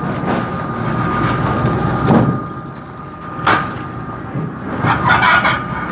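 Machinery aboard a squid-jigging boat running steadily, with a thin constant whine over a rumbling noise. There is a single sharp knock about three and a half seconds in.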